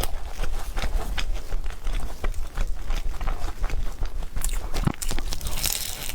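Close-miked chewing and eating: a steady run of irregular short clicks and smacks of food in the mouth, over a low steady hum.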